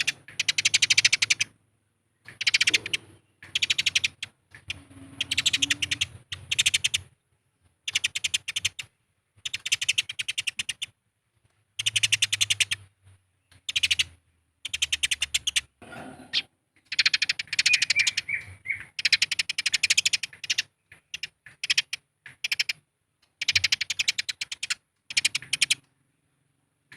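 Eurasian tree sparrows fighting: rapid, harsh chattering chirps in dense bursts of about half a second to two seconds, separated by short silent gaps.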